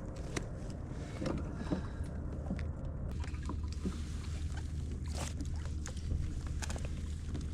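Steady low wind rumble on the microphone on a fishing kayak, with scattered light knocks and clicks on the boat throughout.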